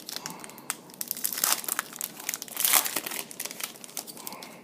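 Foil wrapper of a trading card pack crinkling and tearing as it is handled and opened, with many small sharp clicks and two louder rustles, about a second and a half in and near three seconds in.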